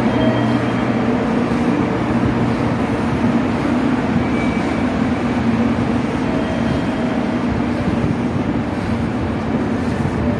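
Steady hum and drone of a stopped electric commuter train's onboard equipment as it stands at the platform with its doors open.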